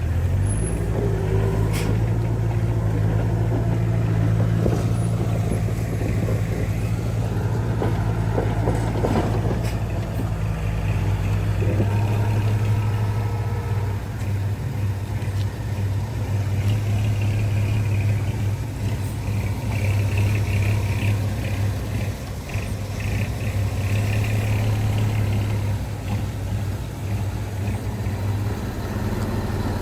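Diesel engine of earthmoving machinery running steadily, its tone changing about twelve seconds in.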